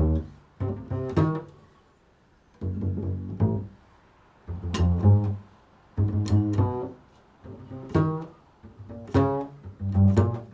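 Double bass playing an improvised line in short phrases of a few notes each, every phrase starting with a sharp attack and separated by brief pauses.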